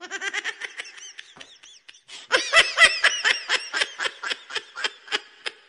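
High-pitched giggling laughter in quick repeated pulses. It thins out briefly about one and a half seconds in, then comes back louder.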